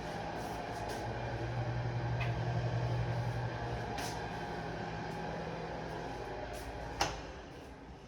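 A steady low mechanical hum that swells about two seconds in and then eases, with a single sharp click about seven seconds in, after which the hum drops away.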